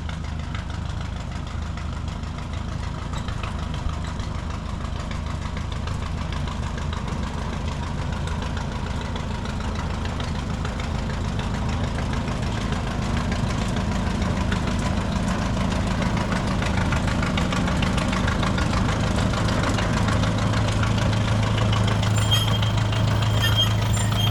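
Plymouth industrial locomotive's engine running steadily as it travels on newly laid 2 ft gauge track, growing gradually louder, its note rising slightly about three-quarters of the way through.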